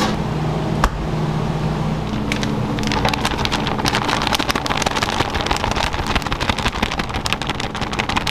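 Crackling sizzle of food deep-frying in hot oil, which thickens into dense, rapid crackling about three seconds in, over a steady low hum.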